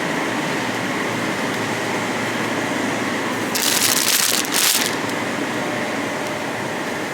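Steady background noise of a busy store, with two short bursts of rustling about three and a half to five seconds in.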